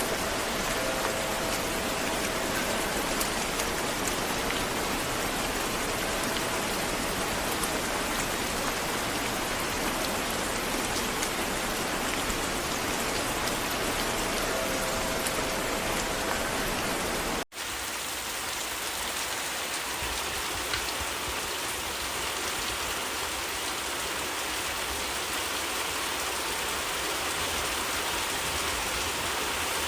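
Steady rain falling, an even hiss of many drops. About halfway through, the sound cuts out for an instant and resumes with less low rumble and a brighter, hissier top, as from a different rain recording spliced in.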